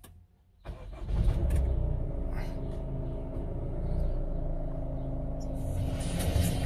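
Honda HR-V engine starting up about a second in, then idling steadily with a low rumble.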